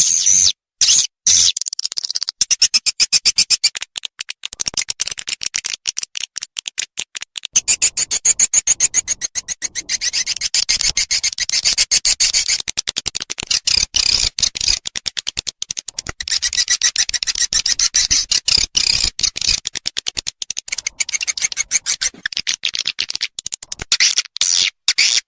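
Edible-nest swiftlet lure recording (suara panggil): dense, rapid chittering chirps repeating without pause, with short breaks near the start and near the end.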